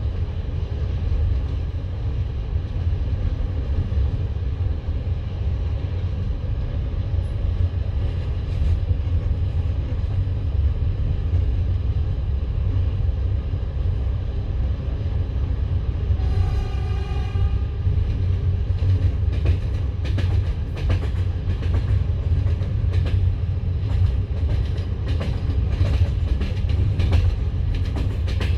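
Passenger train carriage with a steady low rumble. About halfway through, a short horn sounds for a second or two. From about two-thirds of the way, the wheels clack over rail joints and points in quick, irregular clicks.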